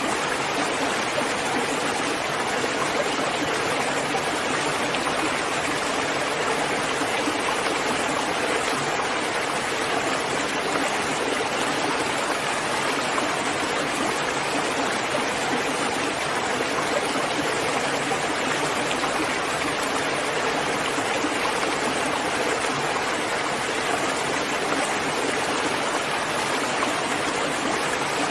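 Steady heavy rain, a dense even hiss with no separate drops standing out.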